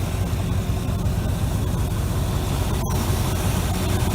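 Chevrolet 454 big-block V8 truck engine idling steadily, with the air conditioning switched on but the compressor clutch not kicking on.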